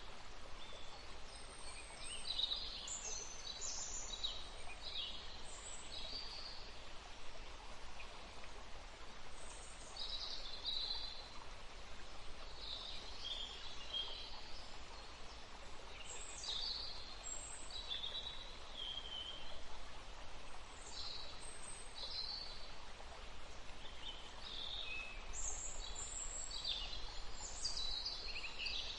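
Woodland stream running steadily, with many songbirds chirping and calling over it in short, frequent phrases.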